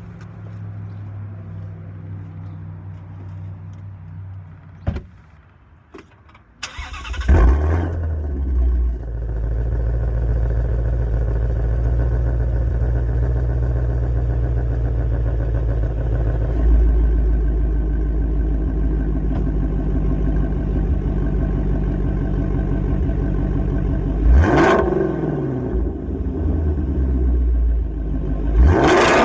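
Ford Shelby GT350's 5.2-litre flat-plane-crank V8 with a non-resonated exhaust, started about seven seconds in: it cranks, catches with a loud flare and settles into a deep, steady idle. The throttle is blipped twice near the end.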